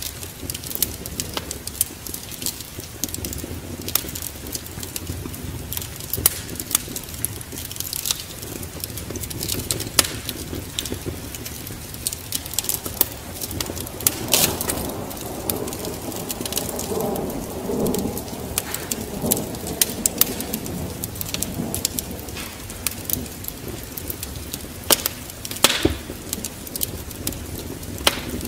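Wood fire crackling and popping in a fireplace over a steady hiss of rain. A low rumble swells and fades about halfway through.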